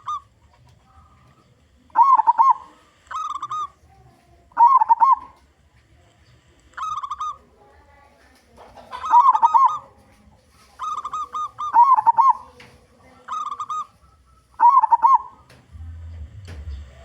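Zebra dove (local perkutut) cooing: about nine short, bubbling phrases, one every second or two. A low rumble comes in near the end.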